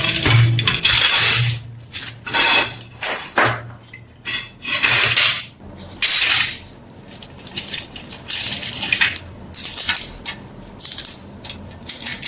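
Irregular scraping strokes on metal, each under a second, with light metallic clinks between them, from hand work on a rusted brass lamp.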